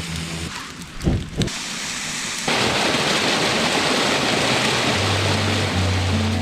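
Steady rush of running water, louder after about two and a half seconds. Low music notes come in near the end.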